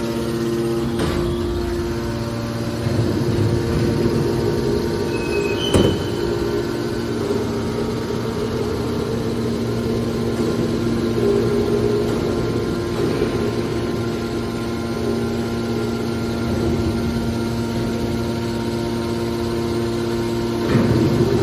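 Hydraulic aluminum can baler running, its pump motor giving a steady hum. A few sharp knocks come through it: the loudest about six seconds in, and others near the start and end.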